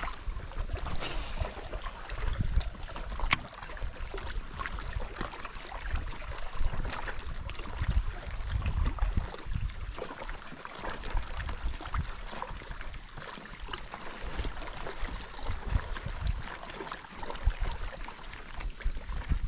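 Wind rumbling unevenly on the microphone over a steady watery hiss from an open fishing boat, with a few sharp clicks.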